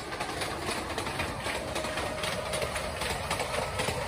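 Steady rumble and clatter of train wheels on rails as a Vande Bharat Express runs past on the adjacent track.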